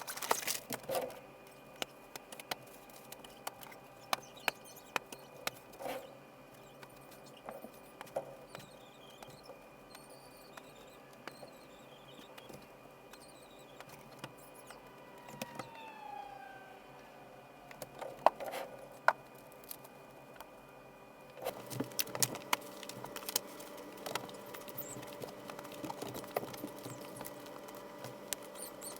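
Light scattered clicks, taps and rustles of small items being handled while a bag is packed. The handling gets busier about two-thirds of the way through.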